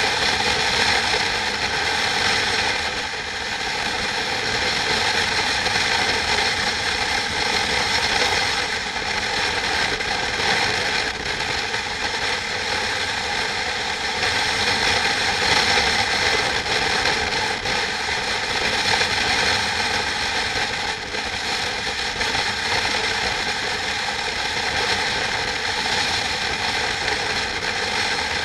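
Steady, continuous mechanical running noise with a dense whir, holding an even level without pauses.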